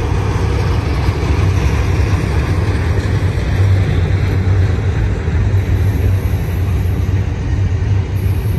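BNSF double-stack intermodal container cars rolling past close by, a loud, steady rumble of steel wheels on the rails with a low hum underneath.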